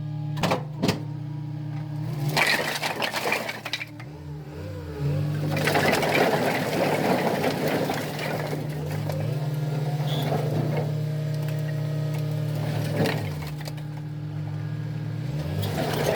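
A truck engine running steadily while split firewood logs clatter and crack, in several bursts, as they are tipped or unloaded from a firewood delivery.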